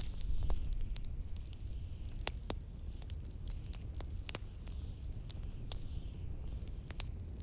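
Wood fire crackling with scattered sharp pops, over a low, steady rumble of blizzard wind.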